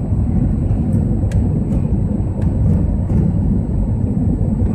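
Airbus A321 cabin noise on the landing approach: a steady low rumble of the jet engines and airflow, heard from inside the passenger cabin, with a few faint ticks.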